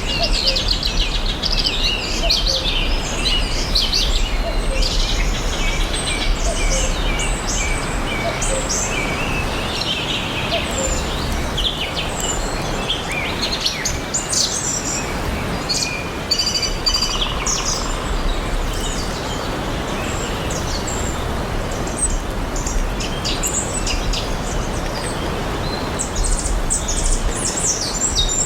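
Several small birds chirping and trilling in a chorus, many short high calls overlapping, over a steady low background rumble.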